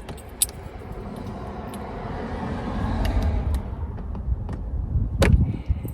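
A vehicle passing by, its rumble swelling and fading around the middle, with a few sharp clicks, the loudest about five seconds in.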